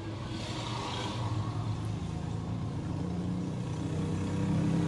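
Mahindra Scorpio's diesel engine running at a steady idle, a low hum that grows slowly louder, with a brief rush of hiss near the start.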